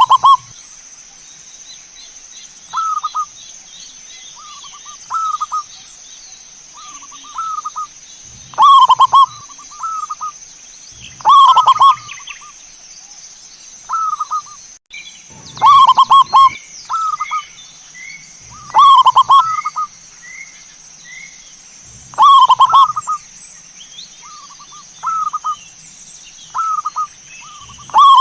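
Zebra dove (perkutut) cooing: a string of rolling, trilled coos every second or two, some short and soft, others louder and longer.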